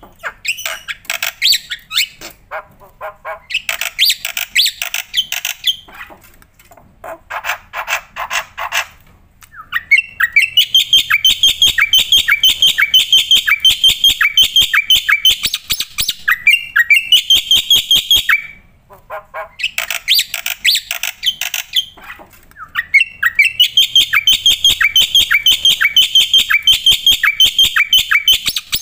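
Black-winged myna (jalak putih) singing loudly in full song: first a varied run of harsh squawks and mixed phrases, then long bursts of fast repeated sharp notes, broken by two short pauses in the later part.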